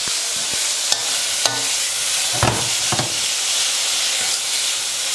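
Chicken pieces sizzling in hot olive oil in a wok on full heat, a steady hiss. A few clicks of the utensil turning the chicken come about a second in, and two louder knocks near the middle.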